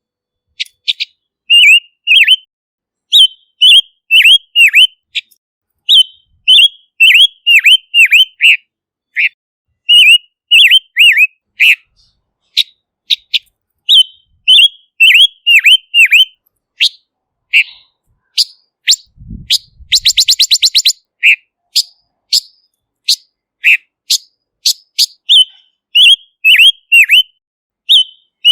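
Silver-eared mesia singing: quick runs of short, clear whistled notes, many with a sharp downward hook, broken by short pauses. About two-thirds of the way through comes a fast, dry rattling trill, just after a brief low thud.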